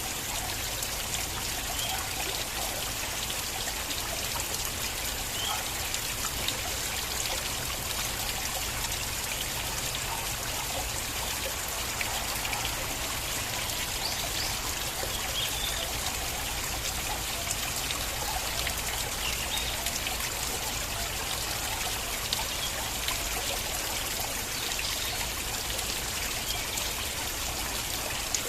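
Small stream of water flowing and trickling steadily, with little splashes and gurgles in it.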